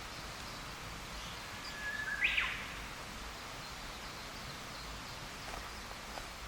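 A single short bird call about two seconds in: a brief held note, then a quick sweep falling in pitch. Behind it is a steady outdoor hiss.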